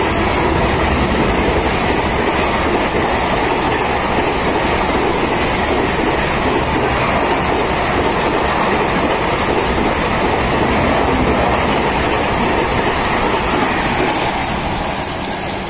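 Coaches of an express train passing a platform at about 138 km/h, a loud steady rush and rumble of wheels on rail that eases slightly near the end.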